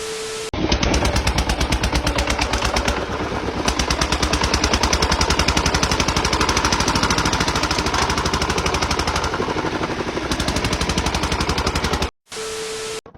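A rapid, steady train of sharp bangs, many a second, running without a break for about eleven seconds, with a short steady beep-like tone just before it starts and again after it stops.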